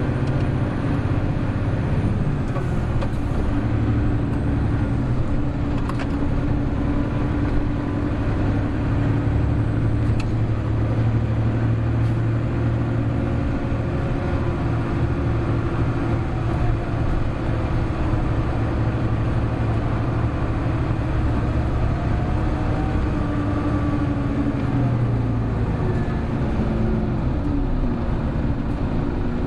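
Hino Blue Ribbon City Hybrid city bus running on the road, its diesel engine pulling with a steady hum under a hard-driven run. Near the end the engine's pitch falls.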